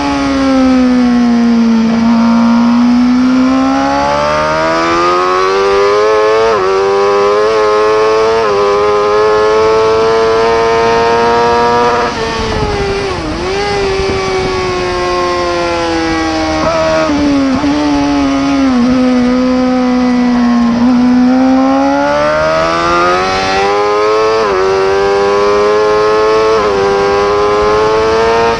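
Racing superbike engine at high revs, climbing through the gears with quick upshifts about 4, 6.5 and 8.5 seconds in. About 12 seconds in the revs drop sharply as the bike shuts off and slows, stay low for several seconds, then climb again from about 21 seconds with more upshifts.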